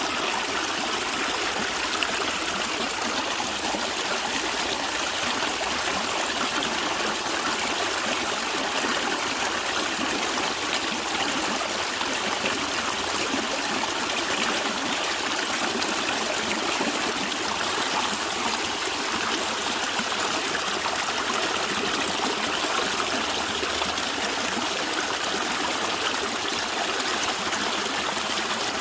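A natural stream of water running and gurgling steadily.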